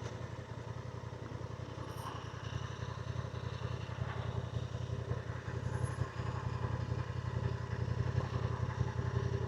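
Motorcycle engine running steadily at low revs, ticking over.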